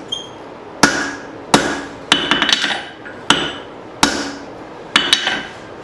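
Hand hammer blows on a hot leaf-spring steel hatchet blank on the anvil, flattening it: about six sharp, ringing strikes under a second apart, two of them followed by a quick run of lighter taps.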